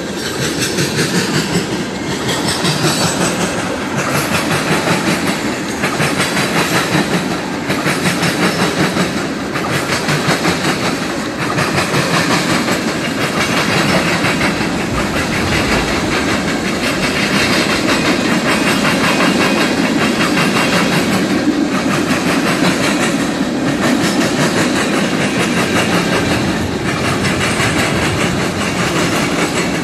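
Freight train of tank cars and covered hoppers rolling past, the wheels clicking over the rail joints in a steady clickety-clack over a continuous rumble. The loudness dips briefly about every two seconds as each car goes by.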